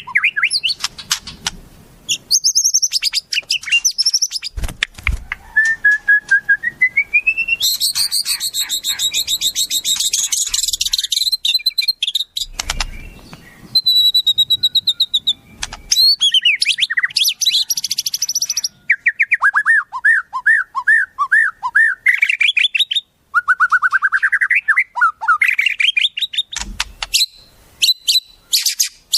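Wild songbirds singing: fast runs of repeated high chirps and whistles, several series of notes sliding upward or downward in pitch, and a dense, buzzy high phrase about a third of the way in. A few dull low thumps break in.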